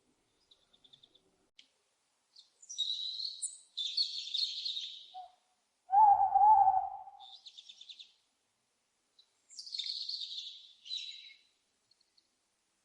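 Small birds chirping with high-pitched calls and quick trills. About six seconds in comes a single wavering, lower owl call of about a second, the loudest sound.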